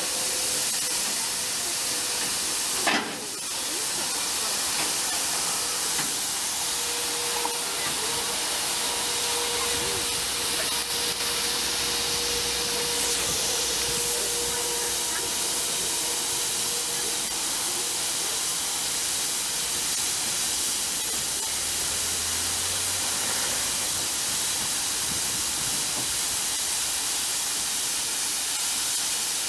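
Steady hiss at a GWR pannier tank steam locomotive standing while its side tanks are filled from a water tower, the sound of escaping steam and rushing water. A single sharp knock comes about three seconds in.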